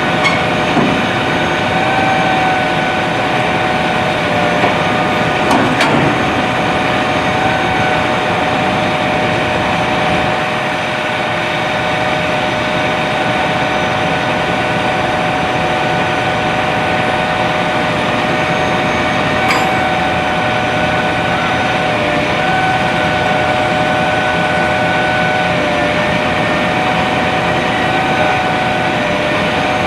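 A vehicle engine idling steadily, with a few brief clicks over it.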